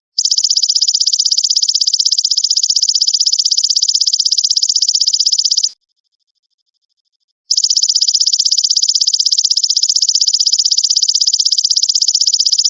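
Belalang emas (golden grasshopper) calling: a loud, rapid, high-pitched pulsed trill held for about five and a half seconds, a sudden stop, then after a short pause a second trill of the same length.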